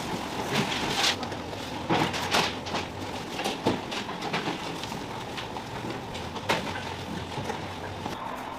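Work-room clatter in a cake factory: a steady background hum with irregular knocks and clinks of tools and trays.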